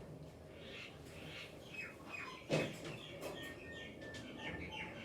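Several birds chirping, many quick downward-sliding chirps overlapping, with a short steady whistled note in the middle. One sharp knock about two and a half seconds in is the loudest sound.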